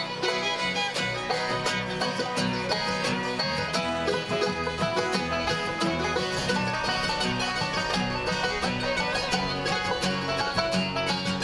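Bluegrass band playing an instrumental passage, with banjo rolls, guitar and fiddle over a steady bass line and no singing.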